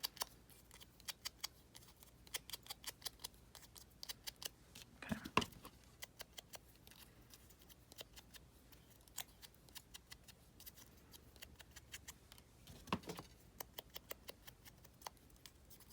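Scissors snipping paper or thin card, a string of small quick cuts in runs with short pauses between them.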